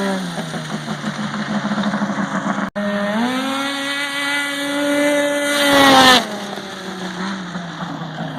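Snowmobile's two-stroke twin engine running through an aftermarket silencer. It slows at first, then after a brief gap revs up and holds high. About three-quarters in it drops suddenly to a lower, pulsing run.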